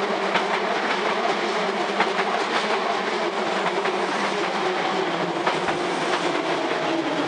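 Hankyu 8000 series electric train cars rolling past close by as the train arrives at a station: a steady running noise with scattered sharp clacks of the wheels over the rail joints.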